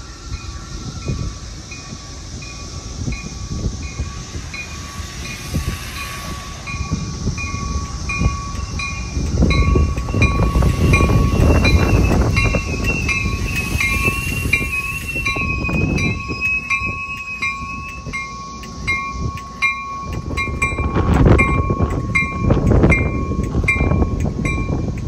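Metra bilevel commuter train passing close by, its wheels rumbling on the rails, loudest as the cars go by. A warning bell dings steadily at about two to three strikes a second over the train noise.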